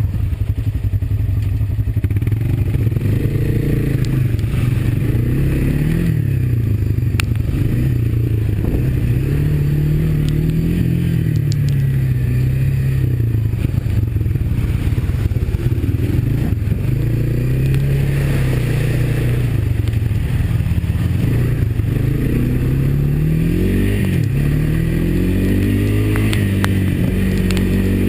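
Honda ATV's single-cylinder four-stroke engine running on the trail, its pitch rising and falling every couple of seconds as the throttle is opened and eased, with a few light clatters.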